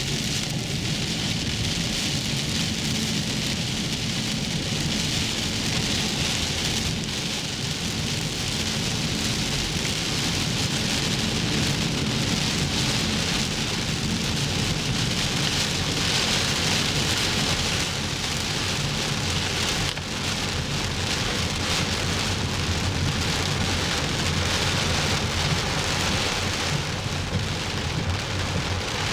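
Heavy typhoon rain falling steadily on surfaces, with a low rumble underneath.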